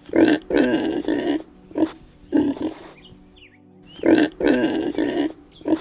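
A pig grunting in rough, rasping bursts, one group of calls followed by a near-identical group about four seconds later, over soft ambient music with a few bird chirps between the calls.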